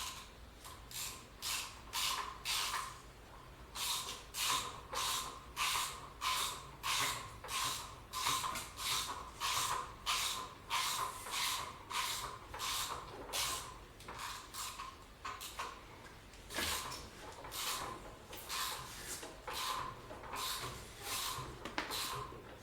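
A hand tool worked in steady, even strokes, about two a second, with a short pause partway through: metal working against metal or wood in a repair job.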